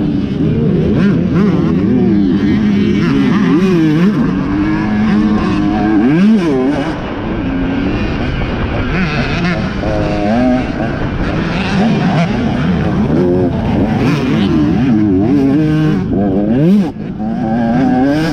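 Several off-road racing motorcycles revving hard, their engine notes overlapping and repeatedly rising and falling in pitch as the riders accelerate and shift.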